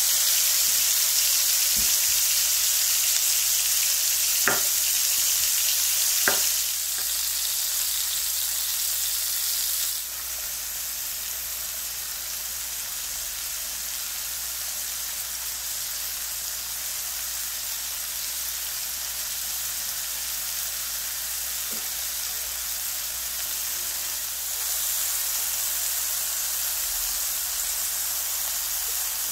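Halved tomatoes and mushrooms sizzling in hot fat in a cast-iron skillet: a steady frying hiss that gets quieter partway through and picks up again near the end. A couple of sharp taps of a utensil against the pan come about four and a half and six seconds in.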